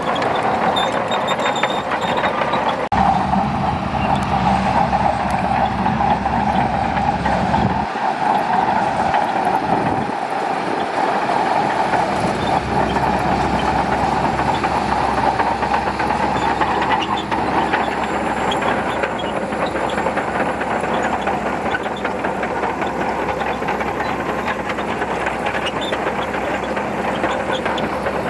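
Shantui DH17C2 crawler bulldozer working: its diesel engine running steadily under a dense clanking of the steel tracks. The sound changes abruptly about three seconds in.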